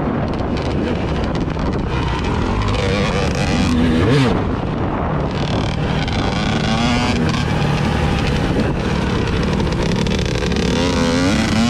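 A vehicle engine running on the move under heavy wind noise buffeting the microphone. The engine pitch rises briefly about four seconds in and again near the end.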